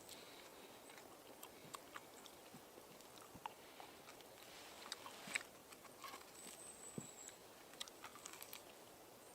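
A person eating: faint, scattered crunches and mouth clicks from chewing and biting, with one louder crunch about five seconds in.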